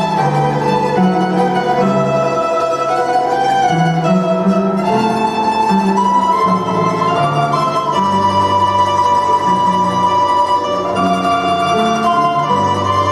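Instrumental duet of plucked string instruments playing a Russian folk-style tune: a melody of long held notes over a lower line of changing notes.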